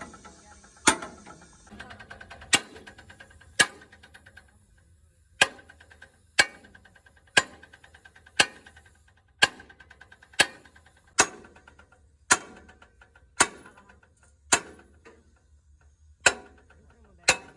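Hammer striking metal in a steady rhythm, about one blow a second, each blow ringing briefly.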